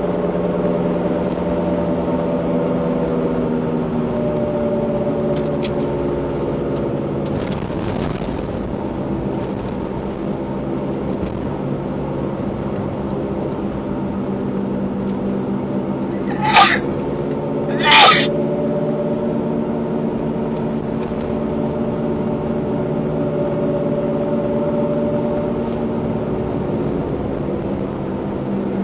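Vehicle engine running with a steady hum whose pitch drifts slowly down and back up. Two short, sharp, high sounds about a second and a half apart cut across it about halfway through and are the loudest thing heard.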